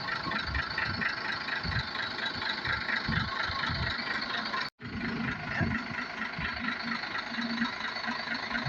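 Truck engine running steadily at idle, with irregular low knocks. The sound cuts out for an instant a little under five seconds in.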